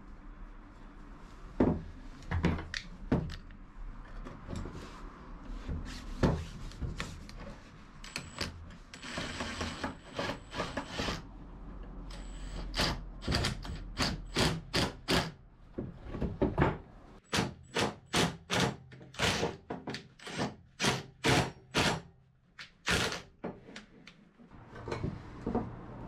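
A run of sharp knocks and clunks from hard objects being struck or handled. They are sparse at first, then come quickly, about two a second, through the second half, with a short rasping scrape in the middle.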